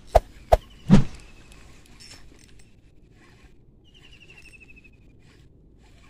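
Three sharp clicks within the first second, then quiet outdoor background with a short, falling, rattling chirp a little past halfway.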